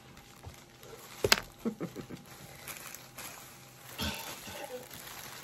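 Mostly quiet handling sounds as hair is sectioned under a plastic cape: one sharp click a little over a second in, a few soft faint sounds just after, and a short rustle about four seconds in.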